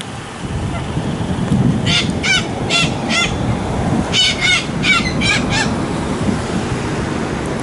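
Long-billed corellas giving short, harsh calls in two quick runs, about four calls and then five, over a steady low rumble of road traffic.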